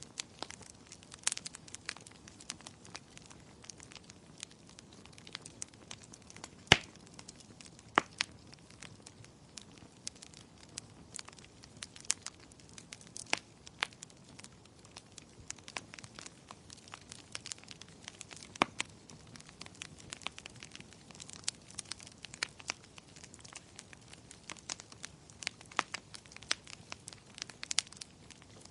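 Wood fire crackling: irregular sharp pops and snaps over a faint steady hiss, with one louder pop about seven seconds in.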